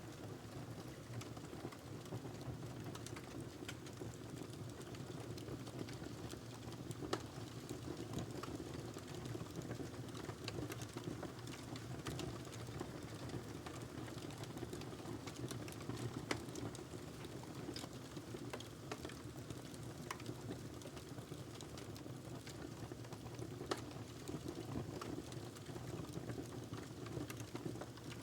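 Wood fire burning in a fireplace: a steady low rumble of flame with scattered crackles and a few louder pops.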